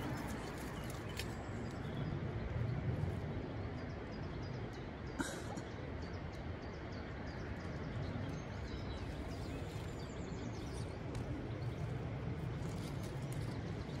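Wild birds singing and chirping in the background over a steady low rumble, with one sharp click about five seconds in.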